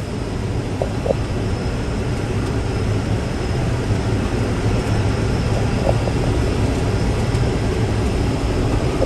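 Farm tractor engine running steadily under load while pulling a hay baler across the field, a constant low drone.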